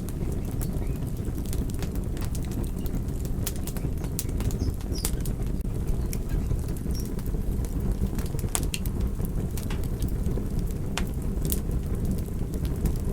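Fire burning: a steady low rumble with frequent sharp crackles and pops scattered irregularly through it.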